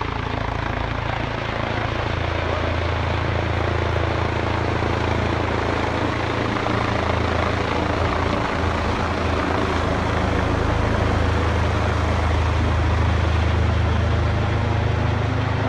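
Large helicopter flying low right overhead: steady rotor and engine noise that slowly grows louder toward the end. The onlookers take it for a paramedic helicopter, too big to be a police one.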